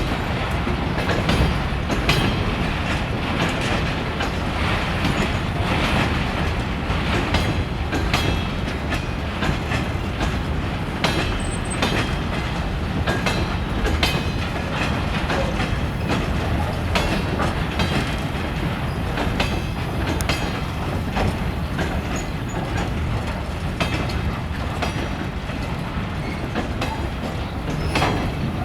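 A train running on jointed track: a steady rumble with the wheels clicking over rail joints every second or two.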